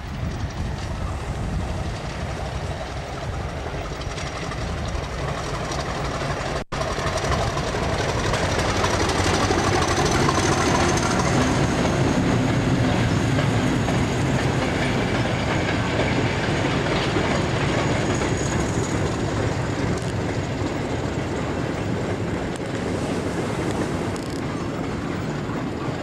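Diesel-hauled train passing close by: the locomotive's engine running under load, then the wagons rolling past on the rails. There is a momentary break in the sound about a quarter of the way in, after which it grows louder.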